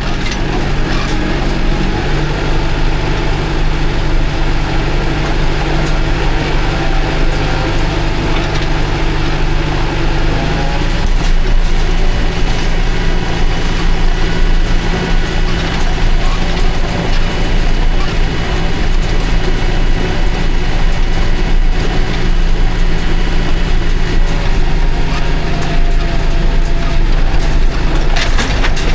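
Logging tractor's engine running steadily, with mechanical rattling and clanking from the machine; about ten seconds in the engine note shifts and gets a little louder.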